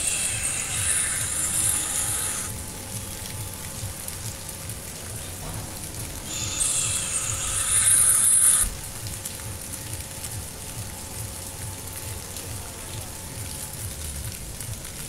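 Steady rain falling. Twice, early and again about halfway through, a louder hissing rush of water lasts a couple of seconds, the second one cutting off suddenly.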